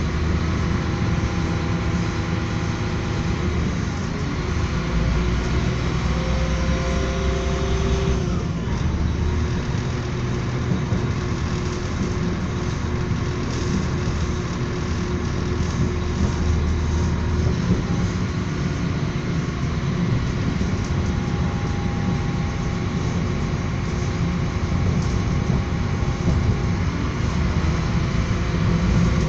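Steady rumble and rattle of a moving electric train, heard from inside the carriage. A few faint whining tones sound over the first eight seconds or so and end in a short falling glide.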